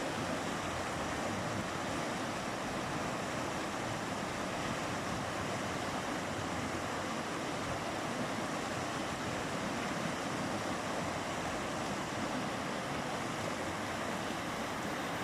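A mountain river rushing steadily, an even roar of flowing water with no breaks.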